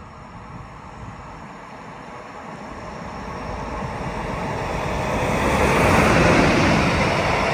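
A train approaching along the line. Its rumble grows steadily louder and peaks about six seconds in as it draws close.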